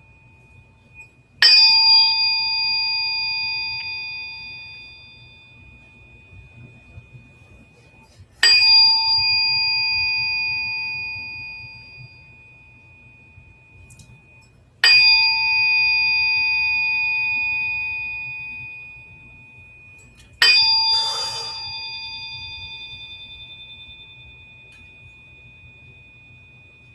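A small bell-like metal instrument is struck four times, several seconds apart. Each strike rings with a few clear overtones that fade slowly, and the highest ring carries on between strikes. The last strike has a brief buzzy rattle.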